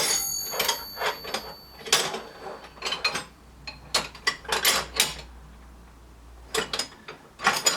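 Steel spanners clinking and clattering as they are picked through and set down. A hard clank at the start leaves a brief metallic ring, then come scattered clinks, a short lull, and more clatter near the end.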